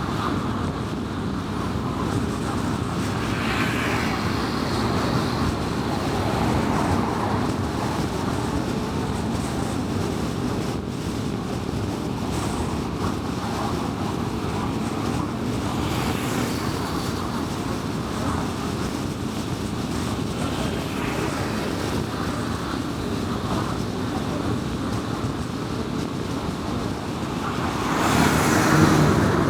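Steady road noise of a car driving on a highway, tyres and engine making an even rush. Near the end it grows louder for a couple of seconds.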